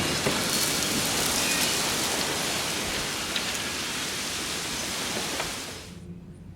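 Steady rain falling, a dense even hiss, which cuts off abruptly about six seconds in.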